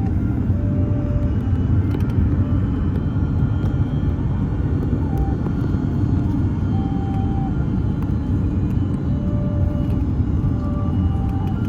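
Airbus A330-300 airliner cabin noise: a steady low rumble of engines and airflow, with a few faint short tones scattered through it.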